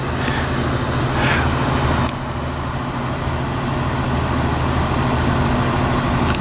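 A motor vehicle's engine running steadily with a low hum, and a short click about two seconds in.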